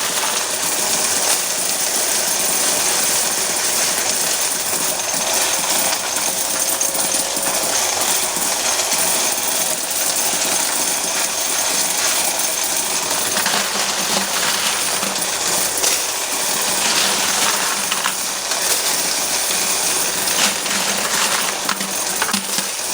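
Electric coin counter running, with a continuous clatter of quarters pouring through it by the thousand.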